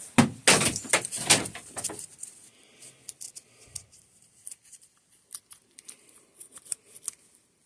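Small parts being handled by hand: a burst of rustling and clattering for about the first two seconds, then scattered light clicks and taps.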